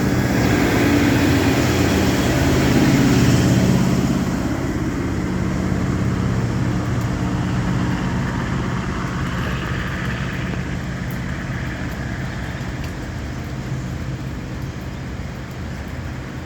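Diesel railcar train pulling away from the station, its engine drone loudest a few seconds in and then slowly fading as it accelerates off.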